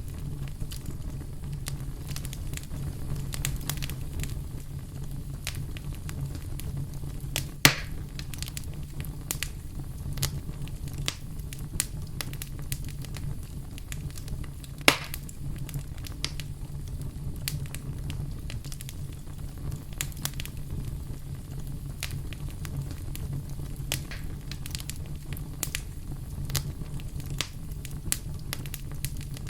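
Campfire crackling, with frequent small snaps over a steady low rumble and two louder pops, about a quarter of the way in and again near halfway.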